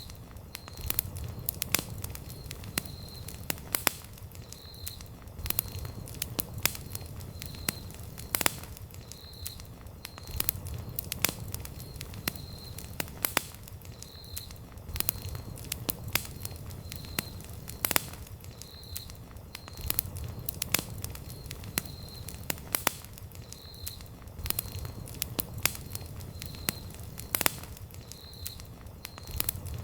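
Wood campfire burning: sharp crackles and pops of the burning wood come at irregular intervals over a low rumble of flames. A faint high chirp repeats about once a second.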